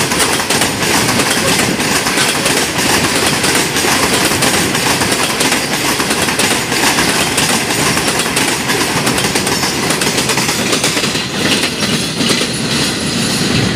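Railway goods wagons rolling past close by: a steady loud rumble and rush of steel wheels on rail, dense with short sharp clicks.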